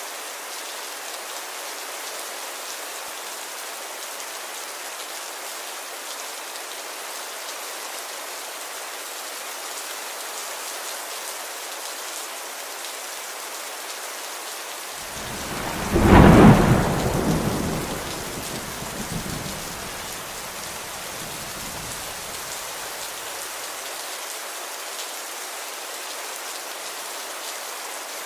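Steady rain hiss, with a clap of thunder a little past halfway through that rumbles low, swells once more and fades out over several seconds.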